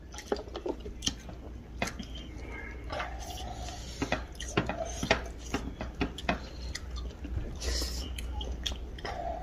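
Close-miked eating: chewing and mouth clicks and smacks of people biting into a big soft steamed momo and eating rice by hand, with scattered short, sharp clicks.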